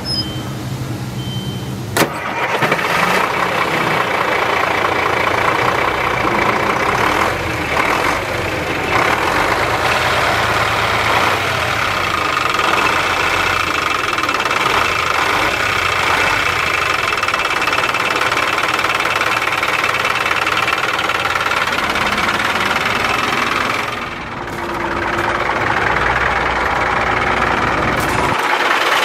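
Diesel engine of a 1998 Ford Louisville dump truck starting: a sharp click about two seconds in as it catches, then running steadily at idle.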